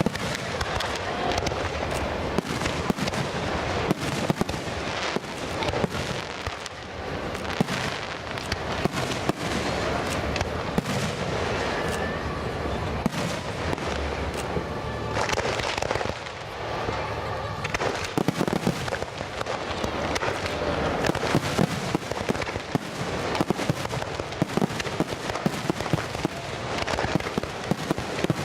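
Fireworks display going off: a dense, continuous run of sharp bangs, pops and crackling, many every second.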